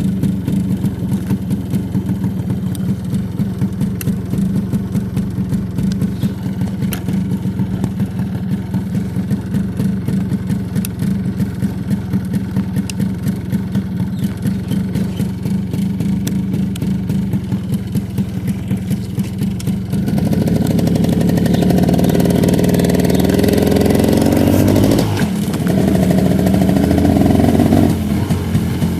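A vehicle's engine runs steadily at low revs on a road test after repair. About twenty seconds in it revs up under acceleration, dips sharply, climbs again, and eases off near the end.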